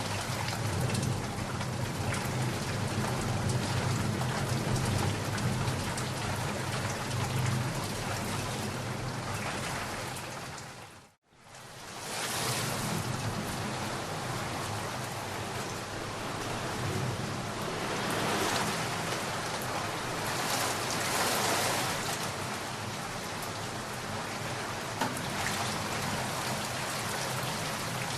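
Steady rain falling, with a low rumble of thunder under it for the first ten seconds or so. About eleven seconds in, the sound fades out to a moment of silence and then fades back in as brighter rain.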